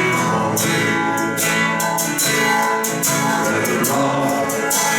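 Worship song music with a strummed acoustic guitar carrying an instrumental gap between sung lines.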